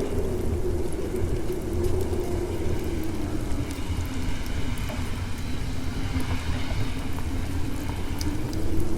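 Snowstorm wind blowing steadily over a deep rumble, with a low howling tone that sinks in pitch around the middle and rises again near the end.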